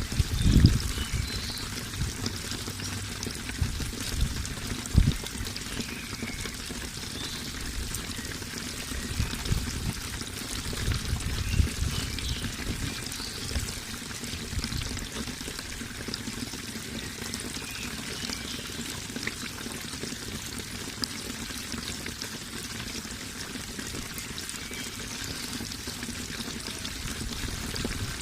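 Water running and pouring steadily. A few brief deep thuds come through in the first half, the loudest about half a second and five seconds in.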